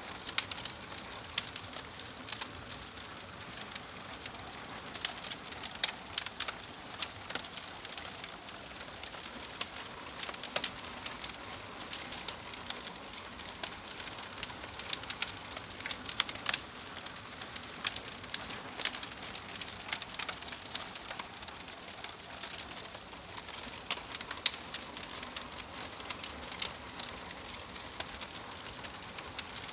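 Wood fire crackling, with irregular sharp pops and snaps over a steady soft hiss.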